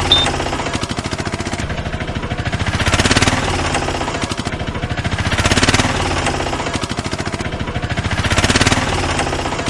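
An engine or motor running with a fast, even chugging pulse, swelling louder about every three seconds.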